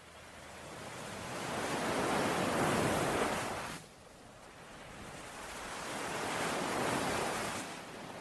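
Ocean waves washing ashore: one wave builds for about three seconds and cuts off sharply near four seconds in, then a second swells and fades away near the end.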